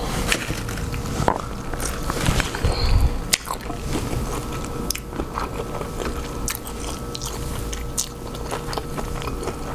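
A person chewing and biting food from a seafood boil, with many small wet clicks and crunches of the mouth.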